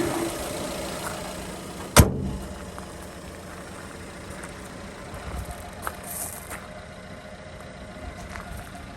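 The bonnet of a Dodge Ram 700 pickup truck is slammed shut, giving one loud bang about two seconds in.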